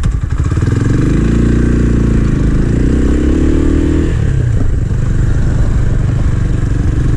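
250 cc motorcycle engine pulling away and accelerating, its pitch climbing for a few seconds, then shifting up and running on more evenly.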